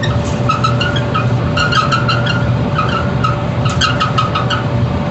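Whirlpool Cabrio dryer running on a test start after a new drum belt and motor pulley were fitted: a steady motor hum with the drum turning, and short squeaks and clicks repeating irregularly over it.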